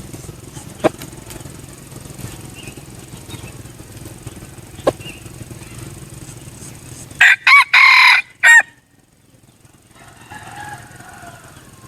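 A junglefowl rooster crows once, about seven seconds in: a short, loud crow broken into a few quick syllables that cuts off sharply. A couple of sharp clicks come earlier, over a steady low background noise.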